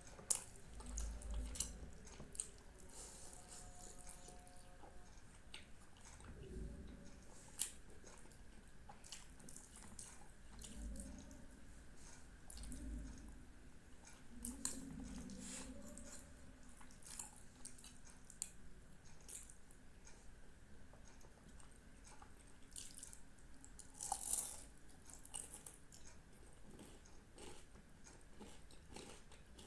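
Quiet wet chewing of syrup-soaked Indian sweets, with scattered lip smacks and mouth clicks and a few soft low murmurs.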